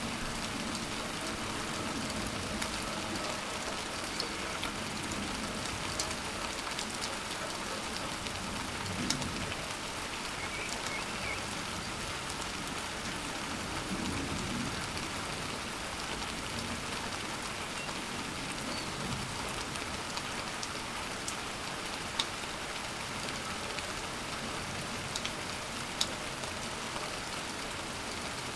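Steady rain falling, with a few sharp, close drip clicks, the loudest near the end.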